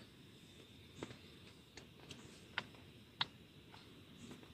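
Four isolated sharp clicks, the last the loudest, over a faint steady hiss with a thin high tone.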